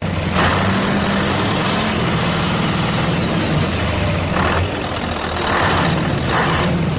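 A large engine running steadily, with several short bursts of hissing.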